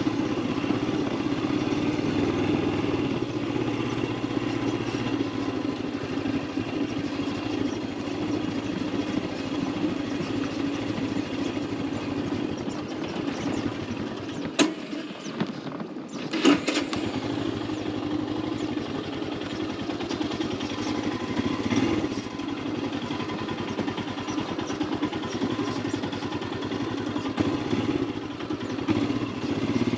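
Royal Enfield Himalayan 411's single-cylinder engine running steadily under way, with wind and road noise. About halfway through the engine sound briefly drops away for a couple of seconds, with a sharp click at the start and end of the gap.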